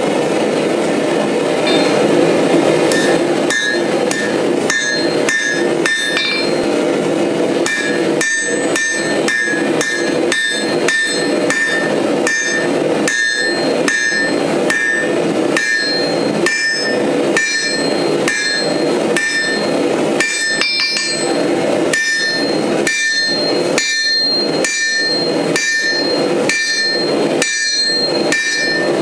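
Hammer forging steel on an anvil: a steady run of ringing metal-on-metal strikes, about one to two a second, starting a few seconds in. A steady rushing noise sits underneath.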